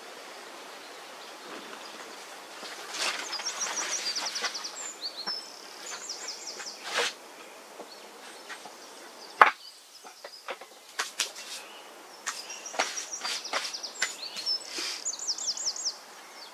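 A songbird sings two phrases of fast, high trills several seconds apart over woodland ambience. Scattered light clicks run through it, and one sharp snap comes about halfway.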